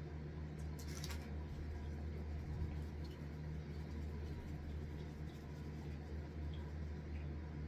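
A person chewing food close to the microphone: faint scattered small mouth clicks over a steady low hum, with one brief sharper crackle about a second in.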